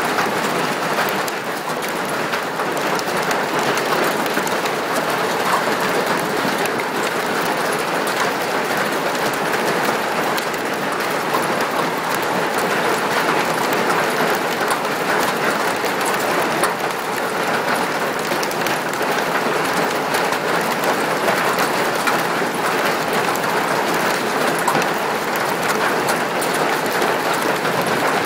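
Hail pelting down in a dense, steady clatter of countless small impacts.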